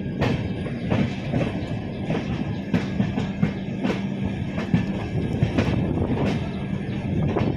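Passenger train running on the rails: wheels clacking over rail joints in an uneven rhythm over a steady rumble.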